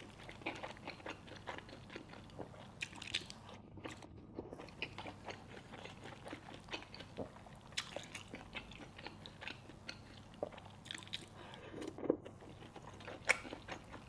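A person chewing and biting homemade chive, egg and vermicelli dumplings close to the microphone, with a steady run of small irregular mouth clicks and smacks.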